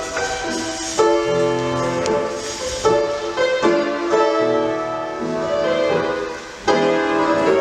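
Piano music for ballet barre exercises: sustained chords struck every second or two.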